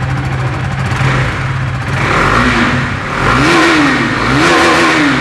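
KTM RC 390's single-cylinder engine idling steadily for about two seconds, then revved in short throttle blips through its exhaust, each rising and falling in pitch.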